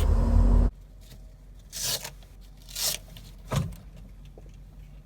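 Steady low rumble of a truck cab with its engine running, cut off abruptly under a second in. Then a few short scraping swishes and a click.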